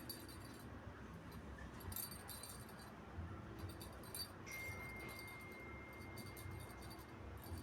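Faint, light metallic jingling and clinking a few times, with a thin, steady high tone starting about halfway through and stopping just before the end.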